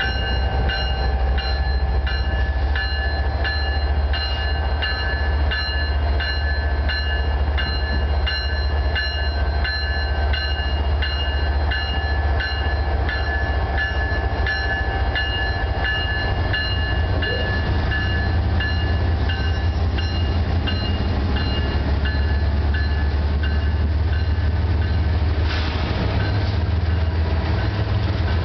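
Union Pacific diesel locomotives passing, their engines giving a steady low rumble, while the locomotive bell rings about twice a second, fading out about two-thirds of the way through.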